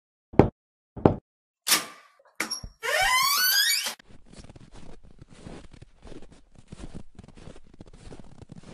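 Knocking on a door, two knocks about half a second apart, then a short sharper noise and the door creaking open with a squeak rising in pitch for about a second. A faint steady rustle follows.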